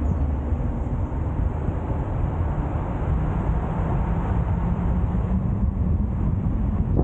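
A car driving along the road: steady rumble of road and engine noise with wind blowing on the microphone.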